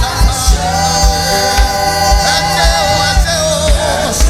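Live gospel worship music: a band with a steady kick-drum beat about twice a second under voices holding a long sung note.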